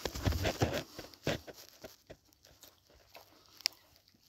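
Close-up chewing and mouth sounds of someone eating, loudest in the first second and a half, then a few faint clicks.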